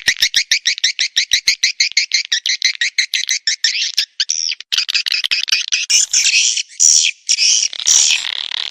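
Swiftlet calls from a swiftlet-farming lure recording. First comes a rapid run of high, buzzy chirps, about eight to ten a second; about five seconds in, it changes to louder, broader twittering chirps repeating about three times a second.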